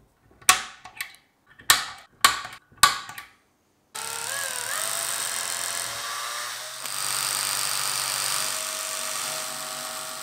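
A handful of sharp knocks, then a power tool's motor starts up. Its pitch rises briefly, and it runs steadily for about six seconds, a little louder about seven seconds in.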